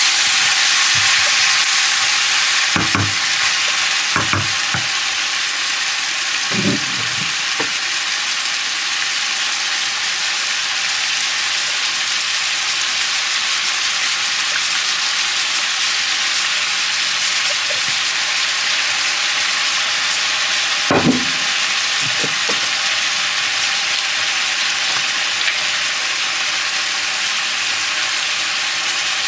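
Pork and bamboo shoot strips sizzling steadily in a hot frying pan while being stirred with a wooden spoon. The sizzle is a little louder for the first few seconds. A few dull knocks of the spoon against the pan come early on, and a stronger one comes about two-thirds of the way through.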